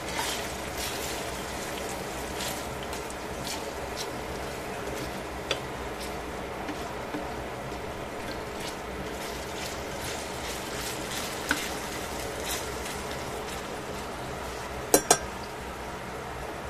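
Chicken pieces sizzling steadily in oil in a stainless steel pan, with metal tongs clicking against the pan now and then as the pieces are turned, loudest in two sharp clinks in quick succession near the end.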